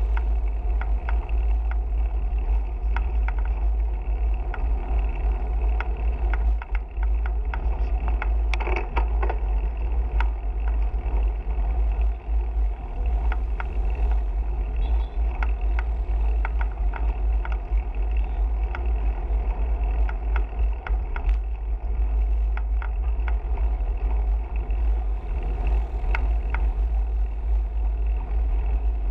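Steady wind noise on the microphone of a camera riding along on a bicycle, with road noise and frequent small clicks and rattles.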